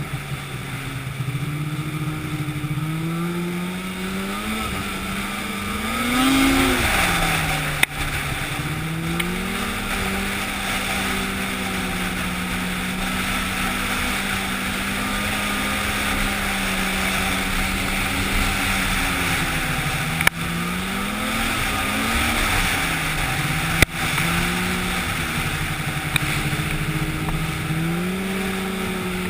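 An engine running, its pitch climbing and dropping a few times between steady stretches, with a few short sharp clicks.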